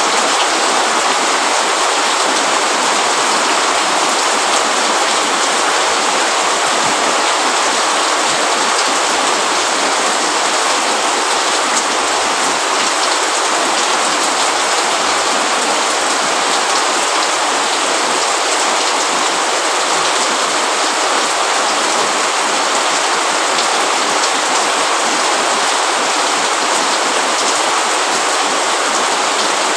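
Rain falling steadily: an even, unbroken hiss of many drops at a constant level.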